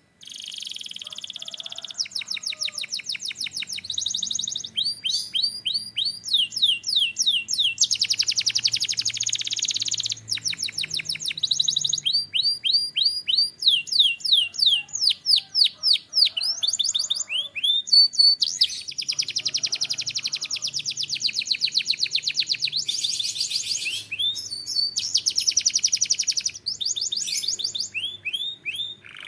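Domestic canary singing a long, unbroken song of fast trills and repeated rising and falling notes, switching to a new phrase every second or two.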